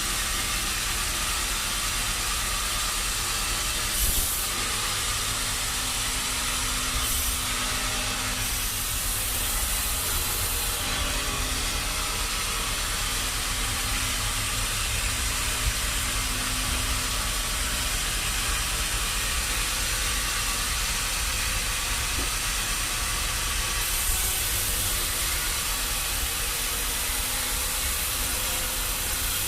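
Sawmill machinery running with a steady hiss and low rumble, and a faint hum that comes and goes through the middle.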